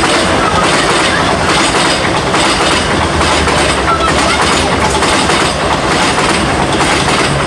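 CrossCountry Voyager diesel multiple unit passing close by, a loud steady rush of train noise with the wheels clacking over the rail joints and a low hum from underneath.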